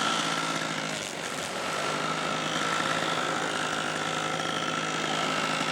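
Radio-controlled model seaplane's small engine running at a steady pitch, with a high whine over it.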